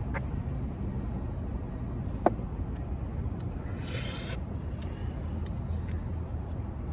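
A person eating with small mouth clicks, and a hissing breath about four seconds in, over a steady low rumble.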